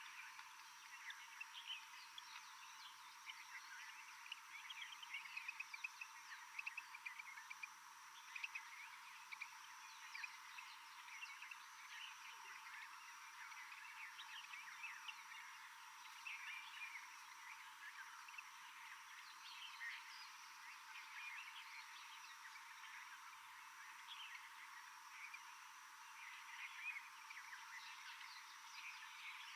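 Faint rainforest animal chorus: many short, high chirps overlapping continuously, thicker in places, over a thin steady high drone.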